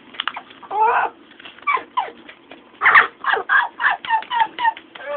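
Blue-fronted amazon parrot giving a string of short squawking, chattering calls with sliding pitch, scattered at first, then a quick run of about half a dozen calls in the second half.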